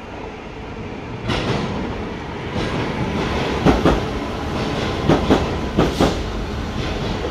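A passenger multiple-unit train running past along the platform. Its rumble swells from about a second in, and its wheels click in quick pairs over the rail joints as each bogie crosses.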